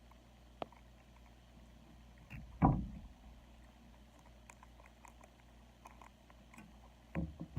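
Handling noise: a sharp click under a second in, a brief loud low thump about two and a half seconds in, and a smaller thump near the end, over a faint steady background.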